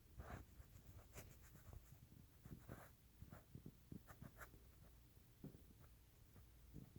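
Faint, irregular scratching and light tapping: a dozen or so short scrapes and ticks.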